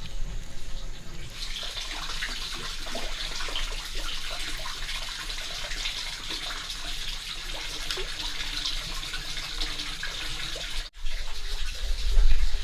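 Water running and splashing, a steady hiss that comes up about a second in, broken by a brief cut near the end and followed by a low rumble.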